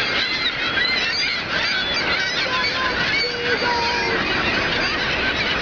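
A crowded gull nesting colony calling all at once, many short overlapping squawks and cries, as the birds squabble over nest space. Under them runs the steady rush of Niagara's falling water.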